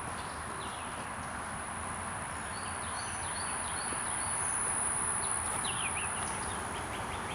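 Forest ambience: short bird chirps over a steady high-pitched insect drone, with a constant hiss beneath.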